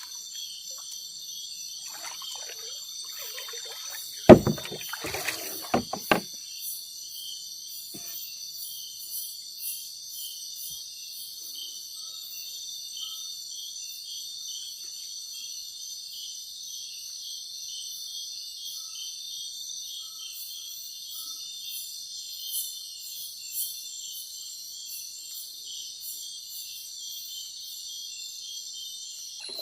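Steady high-pitched chorus of night insects in the forest, with one loud knock about four seconds in and a few smaller knocks just after.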